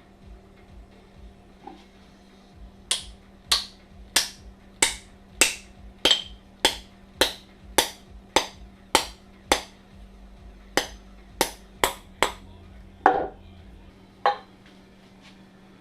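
Hammer blows with a short ring, struck in a steady rhythm of about one and a half a second for around a dozen strokes, then six slower, spaced blows; one blow near the end rings longer.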